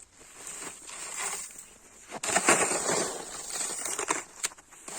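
Snow being shovelled: irregular crunching scrapes and swishes of snow being scooped and thrown, the loudest starting a little over two seconds in.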